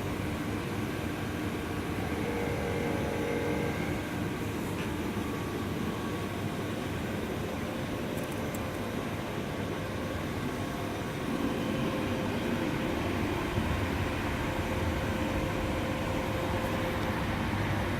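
The small 49cc two-stroke engine of a Mobylette AV-78 moped running steadily, getting a little louder about eleven seconds in.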